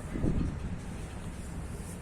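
Low, steady rumble of a train on the line, with wind noise on the microphone.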